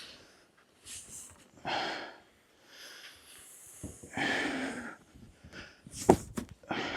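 Snow being packed down: a series of short crunching, scraping bursts about a second apart, with a sharp knock about six seconds in.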